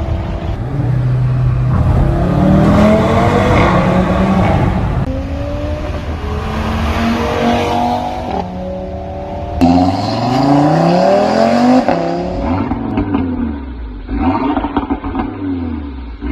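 Audi RS3 8V sedan's turbocharged 2.5-litre five-cylinder accelerating hard through the gears. The engine note climbs and drops back at each upshift, several times over.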